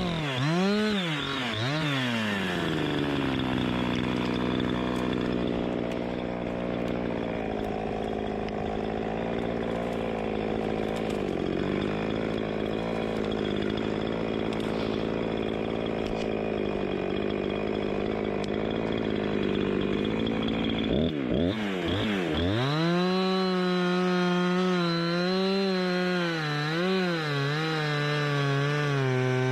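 Two-stroke chainsaw running hard. Its pitch swings down and back up in the first couple of seconds, then holds steady with a rougher, noisier sound for about eighteen seconds as it cuts through wood. Around twenty-one seconds in the pitch dips sharply, then it revs unevenly.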